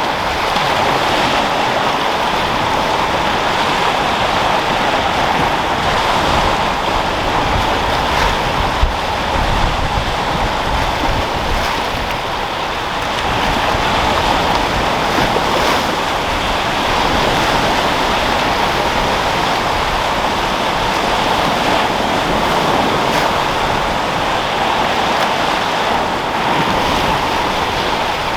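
Sea waves rolling and breaking on a rocky shore, a steady wash of surf that swells and eases gently, with wind blowing over the microphone.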